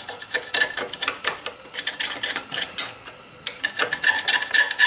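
A metal scraper working quick strokes against a forge blower part, scraping off caked residue with a rasping, clicking sound. The strokes ease off briefly about three seconds in, then pick up again with a thin squeal.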